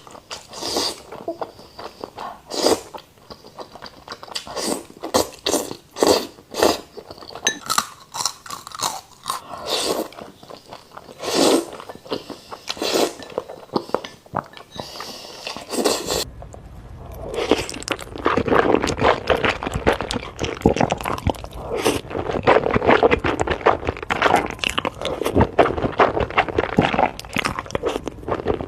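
Close-miked eating of noodles: wet chewing and biting mouth sounds. About sixteen seconds in, the separate strokes give way to denser, continuous chewing.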